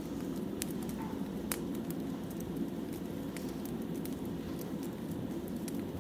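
Wood fire burning: a steady low rush with scattered sharp crackles and pops of the burning logs.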